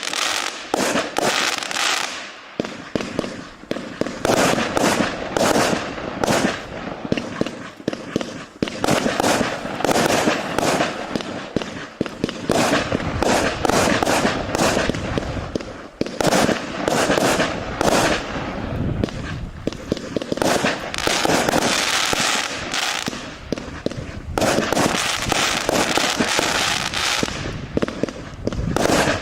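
BL 8116K fireworks battery, a 116-shot cake of 0.8-inch calibre, firing: shots and bursts going off several a second, one after another without pause.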